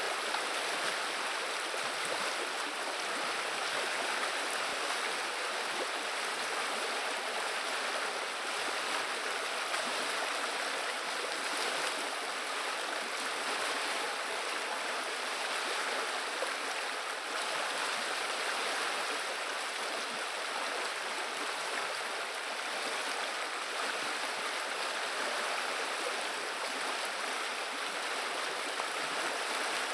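River water running and babbling, a steady, even sound of flowing water.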